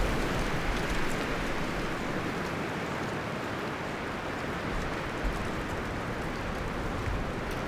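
Wind blowing through forest trees, leaves and branches rustling in a steady hiss; a gust dies down over the first couple of seconds, then the wind holds even.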